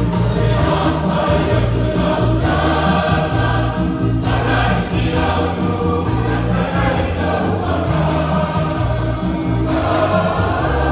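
Church choir singing with instrumental backing and a strong, steady bass line.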